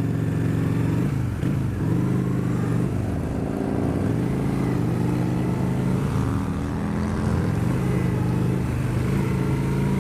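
Honda Shadow Spirit 750's V-twin engine running under way, its pitch dipping and climbing back a few times as the revs change, over a rush of wind noise.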